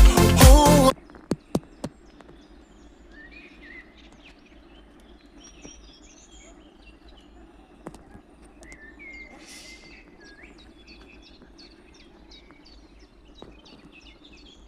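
Upbeat dance music cuts off about a second in, leaving small birds chirping and trilling in short, varied calls over a faint steady low hum, with a few sharp clicks.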